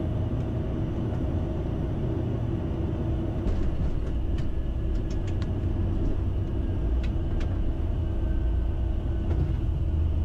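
Cockpit noise of a Bombardier Challenger 650 business jet touching down and rolling out on the runway: a steady low rumble of engines, airflow and wheels, with a few faint clicks in the middle.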